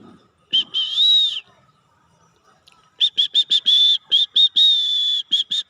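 Pet parrot calling with shrill, whistle-like notes: two calls about half a second in, then a rapid run of short notes broken by a couple of longer held ones from about three seconds in.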